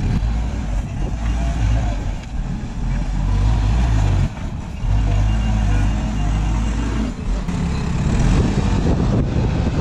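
Heavy diesel engine running steadily, with a brief drop in level about four seconds in.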